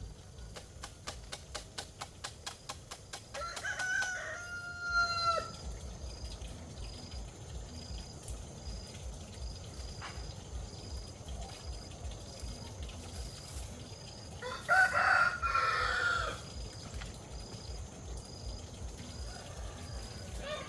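A rooster crowing twice, about ten seconds apart, the second crow louder. A rapid run of light clicks comes in the first few seconds.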